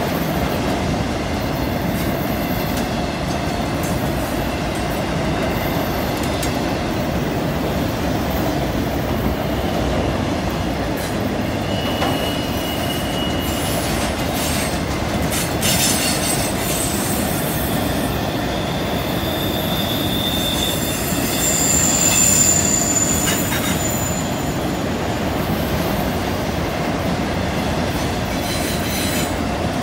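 Freight train of autorack cars rolling past on a curve: a steady rumble of wheels on rail, with high-pitched wheel-flange squeals coming and going, loudest a little past the middle.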